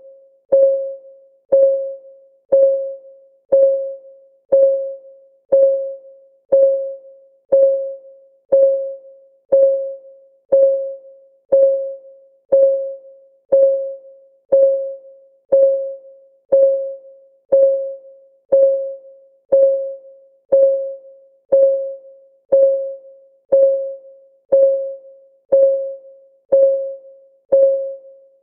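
Countdown timer's clock-ticking sound, one tick per second at a perfectly even pace. Each tick is a short, mid-pitched tock that fades quickly.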